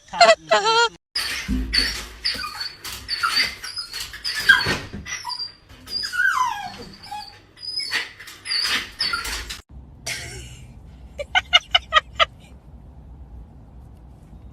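Pet animal calls: many short, high-pitched yips and squeals, then a quick run of short sharp sounds.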